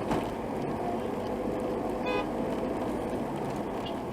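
Road traffic running steadily, with a short car horn toot about two seconds in.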